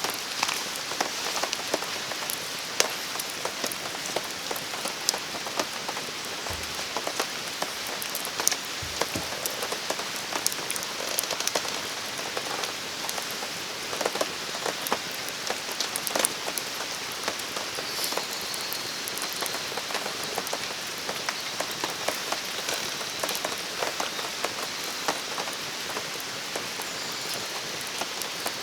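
Steady rain falling, with many short, sharp ticks scattered through the even hiss.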